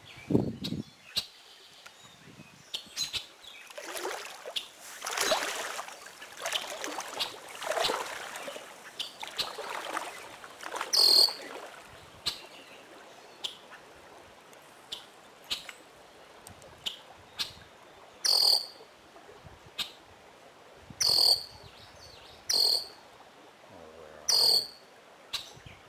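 Blackbirds calling over and over: many short, sharp high call notes, with several louder calls of about half a second each in the second half.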